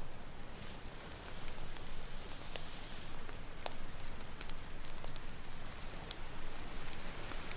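Campfire crackling, with irregular sharp pops and snaps over a steady rushing hiss of ocean surf.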